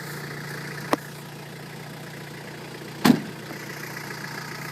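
2002 Toyota Hilux's 3-litre turbo-diesel engine idling steadily, with a sharp click about a second in and a louder short knock about three seconds in.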